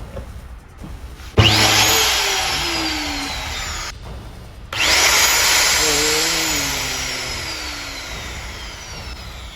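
Electric angle grinder with its disc removed and gear head opened, switched on twice in short bursts: each time the motor whines up suddenly and loudly, then winds down with a slowly falling pitch.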